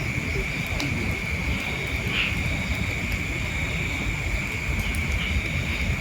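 A steady high-pitched hum holds one pitch throughout, over a low rumbling noise, with a few faint clicks.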